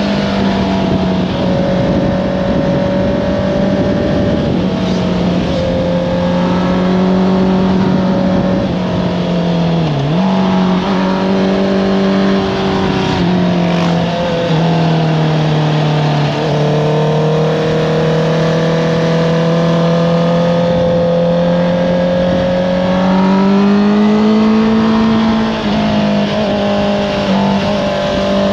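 Honda CBR650R's inline-four engine with an Akrapovič exhaust running at fairly steady revs. Its pitch dips briefly about ten seconds in and again around sixteen seconds, then climbs near twenty-three seconds.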